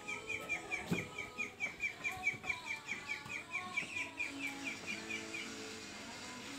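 A bird calling a rapid, even series of short down-slurred chirps, about five a second, that stops about five seconds in.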